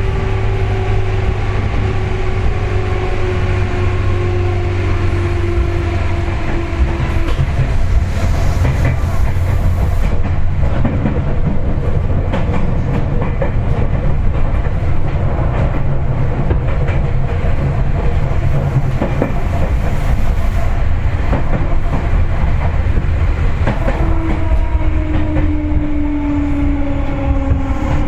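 Cabin running sound of a Seibu 4000 series resistance-controlled electric train: a steady low rumble with a drive whine that falls in pitch, once in the first seven seconds and again near the end, as the train slows for its station stop. Wheel clicks over the rails come through in the middle.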